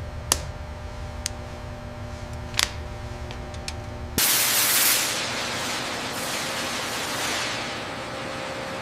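A low steady hum with a few sharp clicks, then about four seconds in a sudden loud hiss starts, eases after a second and goes on as a steady hiss.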